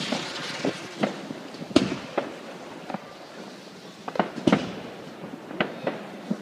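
Fireworks and firecrackers going off: about ten sharp bangs and cracks at irregular intervals, with two louder ones, one near the start and one past the middle.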